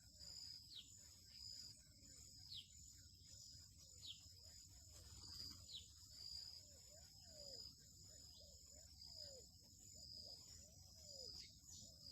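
Faint steady insect chirring, with a short falling whistle repeated about every second and a half and softer, lower falling notes beneath it.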